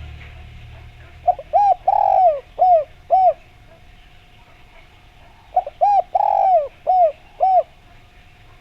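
Spotted dove cooing: two phrases of about five short coos each, the middle note longer, with a few seconds between the phrases. A faint steady tone runs underneath.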